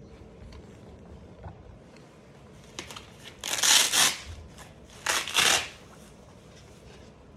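Hook-and-loop (Velcro) fastener of a blood pressure cuff being ripped open, two rasping tears about a second apart, as the cuff comes off the arm.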